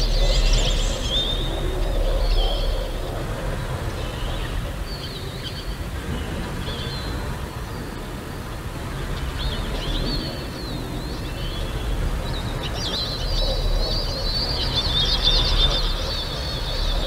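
Birds chirping and calling in short scattered phrases, then in a denser run of rapid chirps in the second half, over a steady low rumble.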